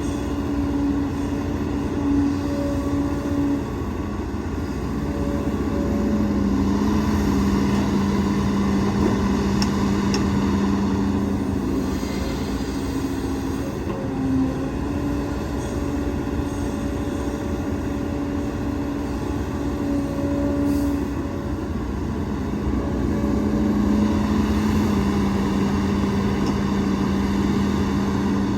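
Heavy diesel engines of an excavator and dump trucks running steadily under load. The engine pitch shifts between a higher and a lower note and the loudness rises and falls as the machines work.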